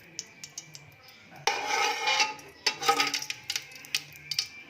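Metal kitchen utensils clinking and scraping against a pan and dishes: a run of sharp clicks with a couple of longer scrapes.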